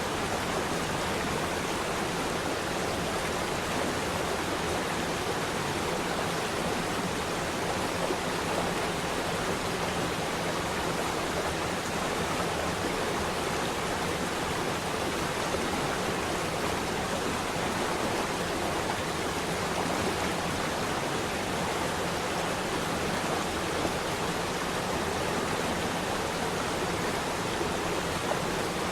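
Flowing water rushing steadily, with no break or change.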